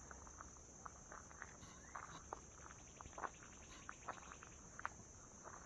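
Faint, irregular footsteps with a steady high insect drone behind them, and a short rapid trill about two to three seconds in.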